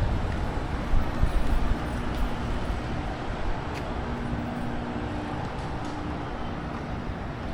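Street traffic noise: a steady low rumble with a vehicle engine's hum passing through the middle.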